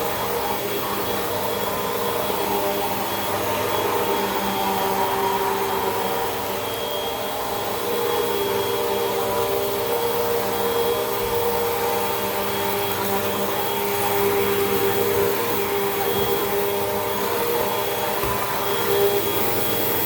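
Hoover WindTunnel 2 Rewind upright vacuum cleaner running steadily as it cleans carpet, a constant motor whine over rushing suction air, swelling slightly as it is pushed back and forth.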